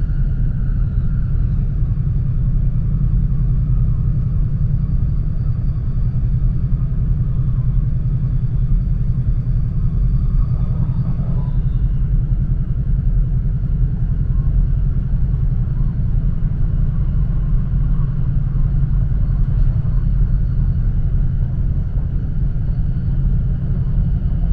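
Steady low rumble of an E4 series Max double-decker Shinkansen running, heard from inside its lower-deck cabin.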